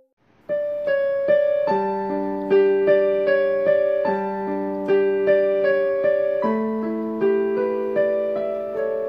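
Slow, gentle piano music playing broken chords, a note or chord struck about every half second and left ringing. It starts about half a second in, after a brief gap.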